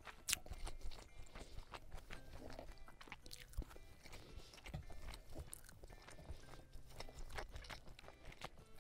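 Close-miked chewing of grilled cold noodles (kao leng mian), with irregular wet mouth clicks and smacks.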